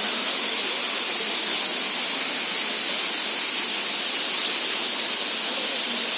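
Waterfall: a steady hiss of falling water and spray that does not change.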